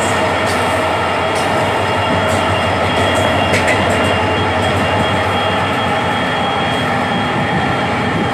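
Two Indian Railways passenger trains running side by side on parallel tracks: a steady, loud noise of wheels on rail and rattling coach running gear, with a few sharp clicks in the first few seconds.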